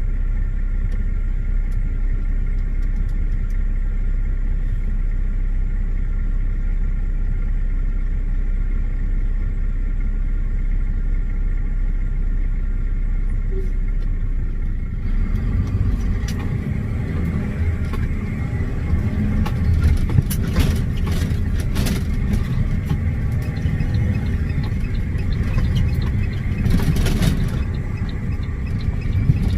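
Truck running with a steady low rumble. About halfway in, the rumble turns rougher and noisier, with scattered knocks and clatters.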